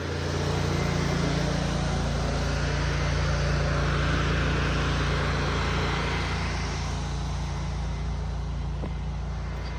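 A combustion engine running steadily, with a broad hiss over its low hum that eases slightly in the second half.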